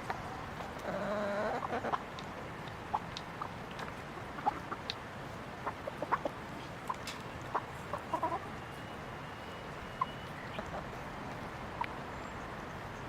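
Chickens clucking: a longer call about a second in, then scattered short clucks and sharp clicks through the rest.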